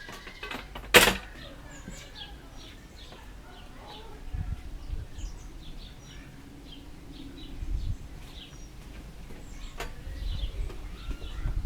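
Small birds chirping repeatedly, with one sharp loud click or knock about a second in and some low rumbling noise.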